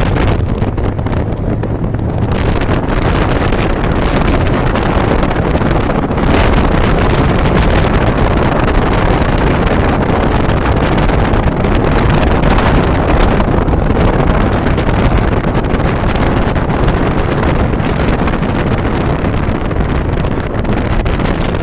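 Wind buffeting the microphone: a loud, steady rushing noise, heaviest in the low end.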